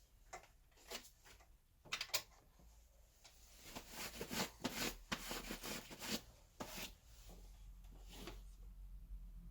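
Faint handling noises: scattered clicks and knocks, with a stretch of rustling and scraping in the middle.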